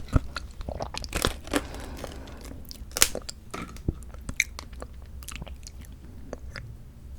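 Close-miked eating of mandarin orange segments from a fruit cup: wet chewing and mouth smacks, a quick run of clicks in the first three seconds, then slower and sparser.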